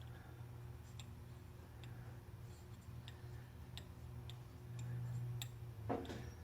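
Faint, irregular light clicks and ticks of hand tools on metal, about one every half-second to second, over a steady low hum, with a brief louder sound near the end.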